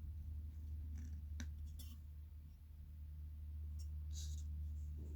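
A few light clicks and scrapes as subwoofer parts are handled, over a steady low hum.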